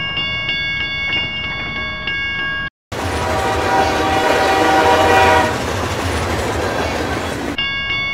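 Dubbed railway sound effects. A level-crossing warning signal rings with steady pulsing tones, then cuts off abruptly about three seconds in. A full-size train rushes past with its horn sounding, and near the end the warning tones return.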